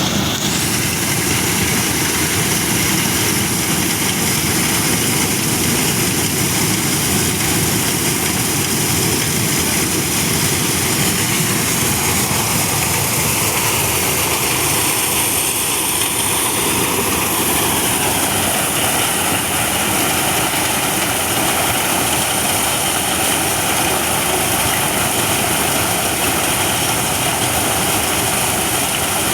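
Engine-driven corn thresher running steadily: a loud, constant machine noise of the engine and threshing drum, with no let-up.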